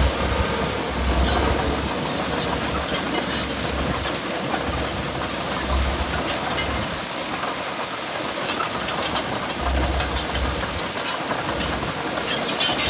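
Heavy earthmoving machinery at work: a steady mechanical din with scattered metallic clicks and clanks, and low rumbles that swell and fade every few seconds.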